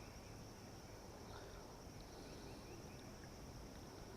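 Faint outdoor ambience: a steady high-pitched insect drone, with a few faint bird chirps.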